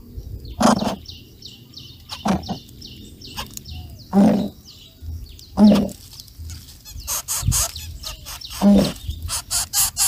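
Bird calls: short, low calls every one to two seconds, with runs of rapid high chirps in the second half.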